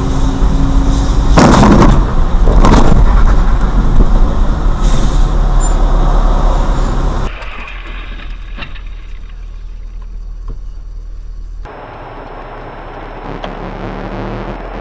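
Car engine and road noise heard from inside a vehicle, with two loud bangs in the first three seconds. The sound drops suddenly to a quieter, steady road noise about seven seconds in.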